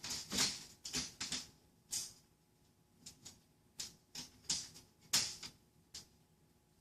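Irregular clicks, taps and short scrapes, about a dozen of them, from small screws and an LED light strip being handled and set into pre-drilled holes in a showcase's metal frame.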